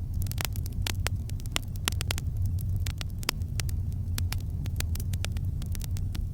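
Campfire crackling, with many irregular sharp pops, several a second, over a steady low rumble of the burning fire.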